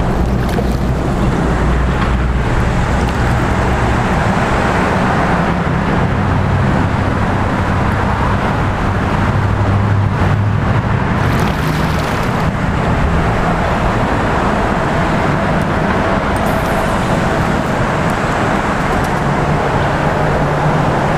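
Steady, loud drone of heavy road traffic on a busy overpass, a continuous low rumble with passing vehicles swelling in and out.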